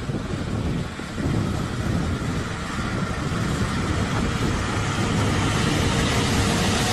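A vehicle running, a steady low rumble that grows a little louder about a second in.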